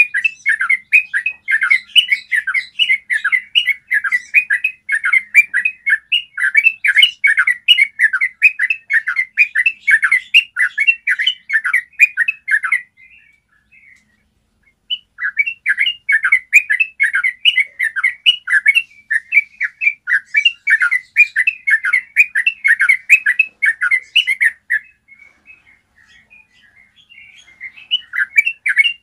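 Yellow-vented bulbul singing a long, fast run of repeated chattering notes, about four or five a second, the 'ropel' song that tutor recordings use to bring caged bulbuls into song. It breaks off twice, for about two seconds about halfway through and for about three seconds near the end.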